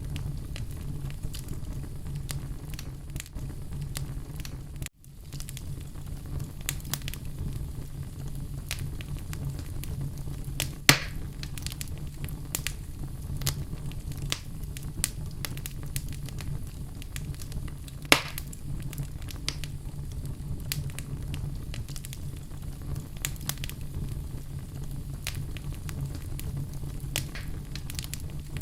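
Wood fire burning in a fireplace: a steady low rumble of flames with frequent small crackles, and two sharper, louder pops, one about eleven seconds in and one about eighteen seconds in.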